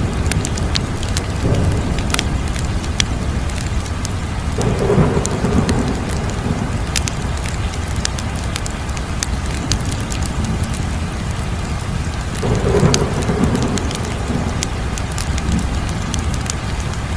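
Crackling wood fire: a steady low roar with many sharp crackles and pops, and two deeper rumbling swells, about five seconds in and again about thirteen seconds in.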